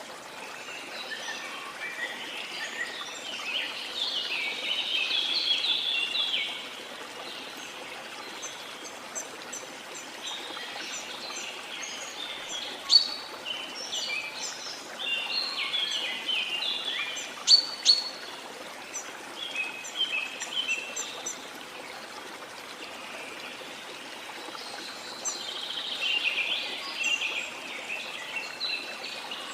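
Steady rush of a waterfall with tropical rainforest birds chirping and calling over it in spells, including a few sharp high whistles.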